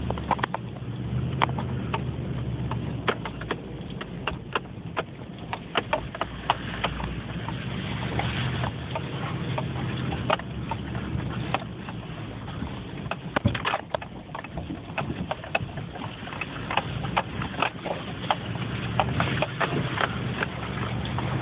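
Nissan Titan pickup's V8 engine running at low speed, with many irregular sharp clicks and knocks from the tires rolling over stones.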